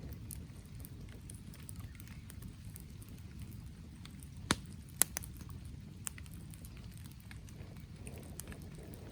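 Wood fire crackling over a steady low rumble, with scattered small clicks and two sharp pops about half a second apart near the middle.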